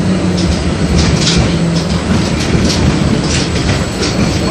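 LVS-86K articulated tram running along the track, heard from inside the car: a steady rumble with a low hum, and repeated clacks from the wheels over the rails.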